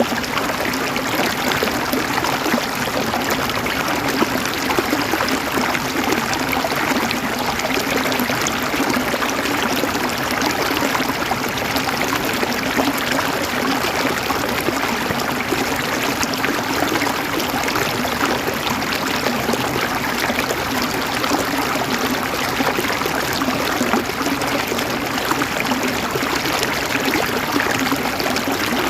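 River water flowing and gurgling over rocks: a steady, even rush with no breaks.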